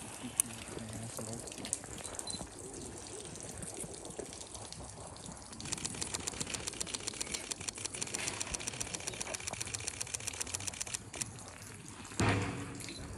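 Water trickling and splashing, with a fast, even ticking running through the middle stretch.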